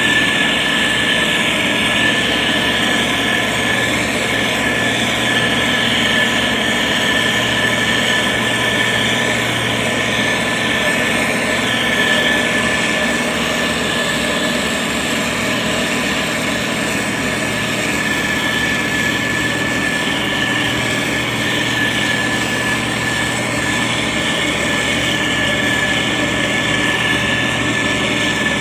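The diesel engine of a SANY STG190C-8S motor grader running steadily under load, with a constant high whine over the engine.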